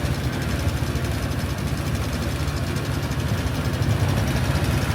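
Honda Helix scooters' single-cylinder four-stroke engines idling steadily, just after a cold start.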